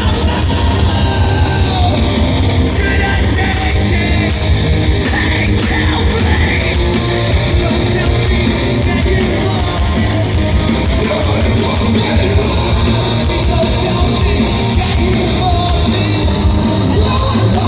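A live heavy rock band playing loud, with distorted guitars, drums and a shouted vocal.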